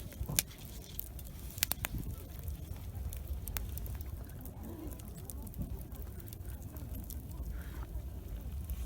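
Wood campfire crackling, with scattered sharp pops, several close together near two seconds in, over a low steady rumble.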